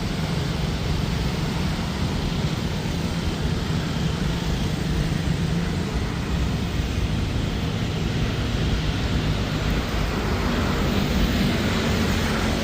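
Jet airliner's engines at takeoff power, a steady rushing noise that grows slightly louder near the end.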